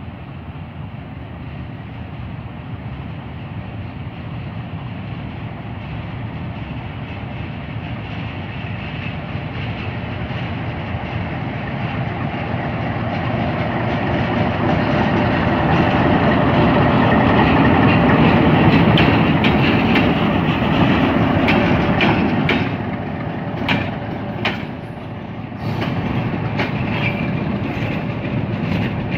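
Diesel locomotive hauling passenger coaches approaches and passes close by, its engine noise growing steadily louder to a peak about two-thirds of the way through. Toward the end the coach wheels clatter with sharp clicks over the rail joints.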